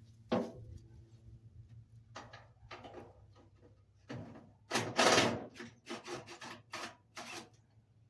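Impact wrench hammering in one short burst about five seconds in, loosening a hood hinge bolt on an old truck. Around it are scattered clanks of the socket and tools being handled.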